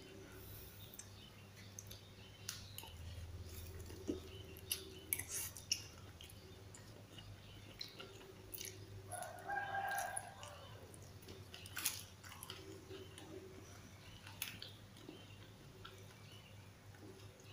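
A person chewing raw lamtoro leaves, with scattered sharp clicks. About nine seconds in, a rooster crows once.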